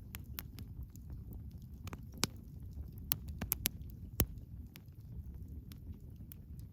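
Wood bonfire crackling: scattered sharp pops and snaps over a steady low rumble of the flames, with a quick run of louder pops in the middle.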